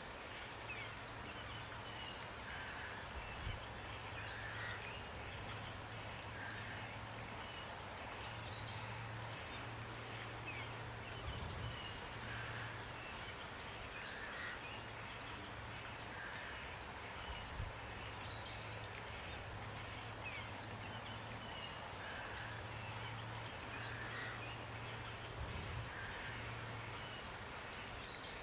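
Steady rain with songbirds calling over it in high, rapid chirps and trills, the same phrases coming back about every eight seconds.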